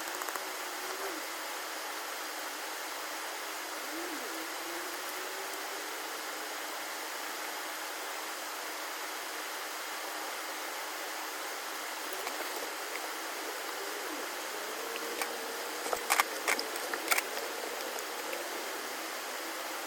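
Steady rushing of a river or stream. A few sharp clicks or knocks come near the end.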